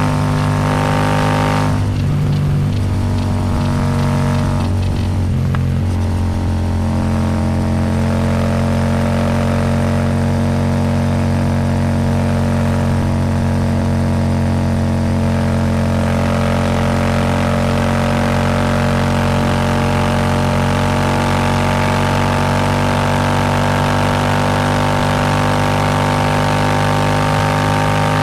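Royal Enfield Super Meteor 650's parallel-twin engine running through an aftermarket Rhino Racing slip-on exhaust while riding. The exhaust note wavers twice in the first few seconds, then holds steady, with wind hiss growing in the second half.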